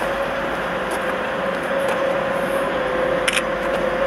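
A train approaching along the station tracks: a steady rumble with a constant tone running through it, growing slightly louder. A short click comes about three seconds in.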